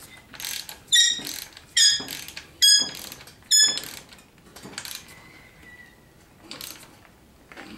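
Steel tools working a bolt into a steel mower bar: four loud, ringing metal-on-metal strikes about a second apart, followed by lighter clinks and knocks.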